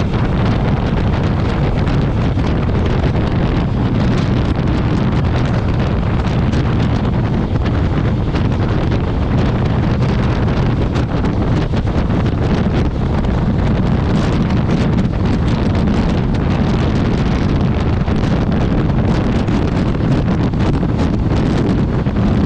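Wind buffeting the microphone of a motorcycle riding at speed: a loud, steady rush, heaviest in the low end, that flutters constantly, with vehicle noise underneath.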